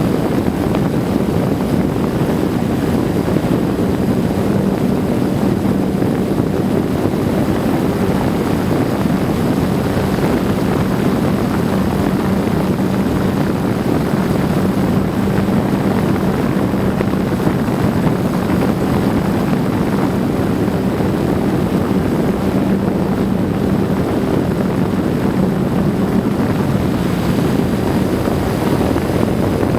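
A steady engine drone with a constant low hum, unchanging throughout.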